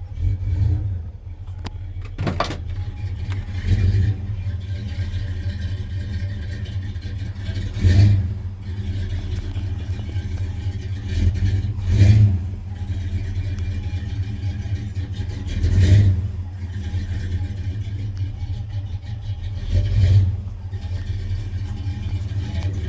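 1978 Ford F-250 engine running just after a cold start, its throttle blipped about every four seconds to keep it from stalling. Between the blips the engine drops back to a low, uneven idle.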